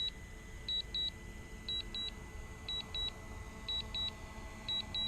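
Drone remote controller's low-battery alarm beeping: high double beeps about once a second. The aircraft battery is down to about 19 to 20%.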